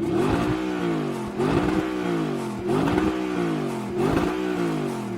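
First-generation Audi R8's 4.2-litre V8 being revved four times in a row, each rev rising quickly and then falling back more slowly.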